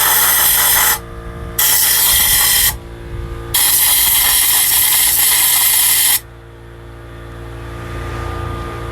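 Compressed air hissing from a blow gun in three blasts: one that stops about a second in, a short one, then a longer one of nearly three seconds. The air is blowing water off a pressure-washed engine whose wet spark plugs and coils are shorting out.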